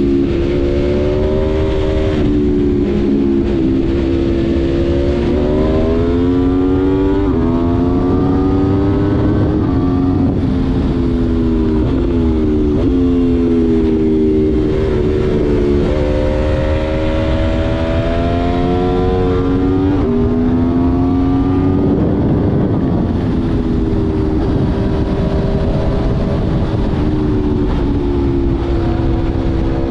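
Aprilia Tuono V4 1100's V4 engine under hard acceleration, its pitch climbing and then dropping at each upshift several times over, with heavy wind rush on the microphone.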